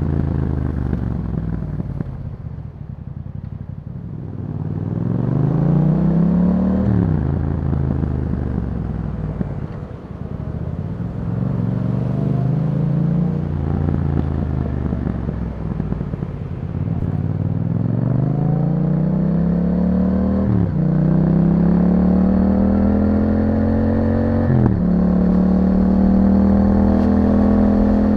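2021 Yamaha MT-07's parallel-twin engine through an Akrapovic exhaust, recorded while riding. The revs fall off the throttle, then climb, with a quick drop in pitch at each of three upshifts: one about a quarter of the way in and two in the last third. Near the end it pulls steadily in a higher gear.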